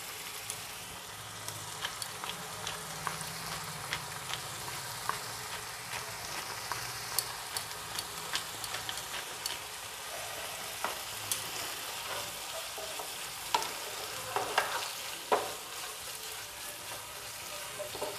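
Boneless chicken and spice paste sizzling in oil in a non-stick frying pan, being fried down (kosha) over a medium gas flame. Scattered sharp crackles and clicks run through the sizzle, with a few louder knocks about three quarters of the way through.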